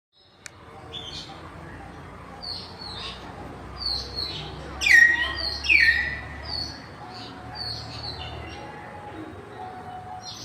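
Common hill mynahs calling: a run of short, high calls, with two loud downward-sliding calls about five and six seconds in.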